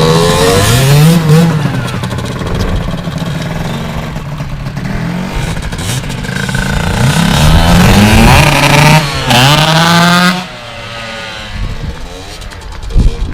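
Two-stroke dirt bike engine revving up and down repeatedly as the rider works the throttle, then easing off to a quieter run about ten seconds in.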